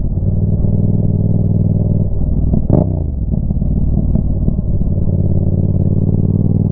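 Yamaha MT-07's 689 cc parallel-twin engine running steadily through a Roadsitalia exhaust with the dB killer removed. There is one sharp exhaust pop about two and a half seconds in, where the note briefly dips.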